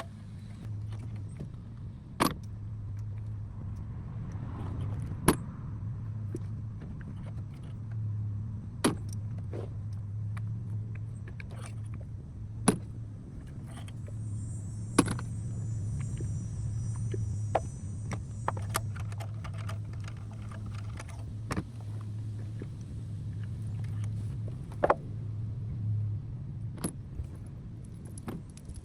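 Sharp metal clicks and clinks of hand tools and parts at irregular intervals, typical of unbolting an engine's intake manifold, over a steady low hum that stops near the end.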